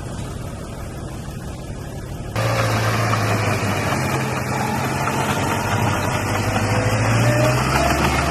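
Diesel engine of a heavy earthmoving machine running steadily. About two seconds in, the sound jumps suddenly louder with a stronger engine note, and near the end the note drops lower.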